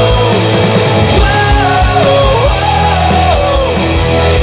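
Live rock band playing loud, with a steady drum beat and bass under a gliding, wordless melody line.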